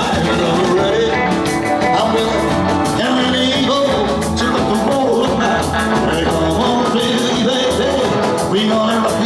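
Rock and roll band playing live, with electric guitar, bass and a steady drum beat.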